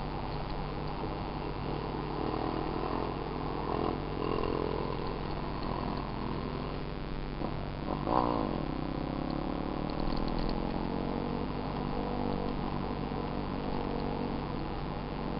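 Small dirt bike engine running steadily, with a brief rev about eight seconds in.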